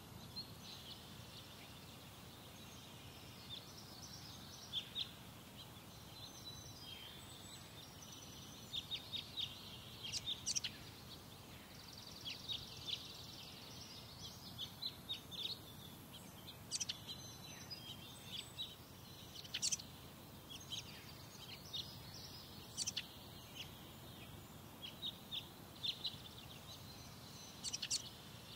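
Birds calling with many short, sharp, high chirps, some in quick runs of several, scattered throughout over a steady low background rumble.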